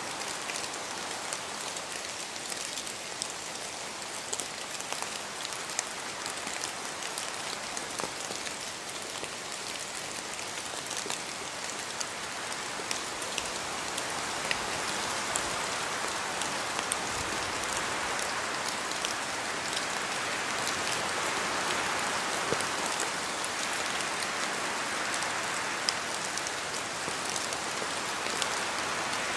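Steady rain falling in a forest, with many separate drop ticks from water dripping off the trees over an even hiss. It grows a little louder about halfway through.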